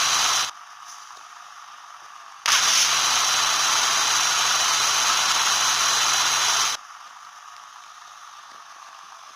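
A steady, loud hissing machine noise with a faint hum under it. It cuts off half a second in, switches on again abruptly about two and a half seconds in, and stops suddenly about four seconds later.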